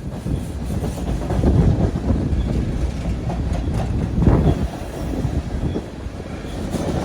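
A train rolling past on the rails, its cars rumbling and clattering, with louder clanks about a second and a half in and again about four seconds in.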